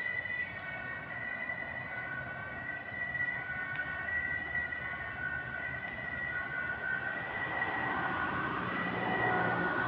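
A siren sounding in steady high tones that break off and resume. A rougher noise with a low hum builds in near the end.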